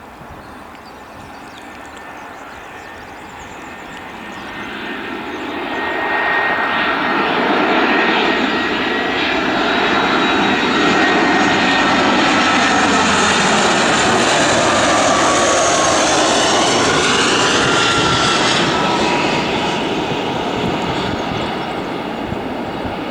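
An airliner passing close by: engine noise builds over several seconds, holds loud, then fades, with a high engine whine that falls in pitch as it goes past.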